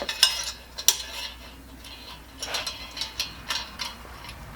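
Scattered light metallic clicks and clinks, about five in all, as small metal stove parts and tools are handled while a new generator is fitted into a Coleman 502 pocket stove.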